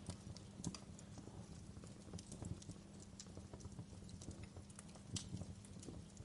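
Wood fire of burning logs in a fireplace, crackling and popping: irregular sharp snaps, several a second, over a low steady rumble.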